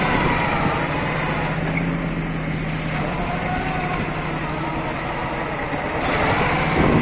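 MTZ-132 mini tractor's engine running steadily a little above idle as it pulls a disc harrow; its note shifts about three seconds in. Wind rushes over the microphone throughout.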